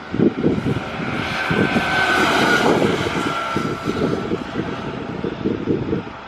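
An engine running, with a rough, fast low pulsing throughout and a faint whine in the middle stretch.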